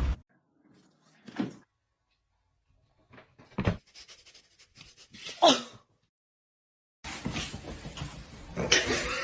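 A short animal cry falling in pitch, with a single knock a couple of seconds before it and a few other faint short sounds around otherwise quiet stretches; steady room noise comes in near the end.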